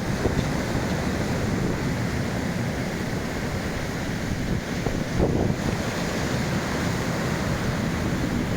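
Black Sea waves washing onto the shore: a steady rush of surf, swelling slightly about five seconds in.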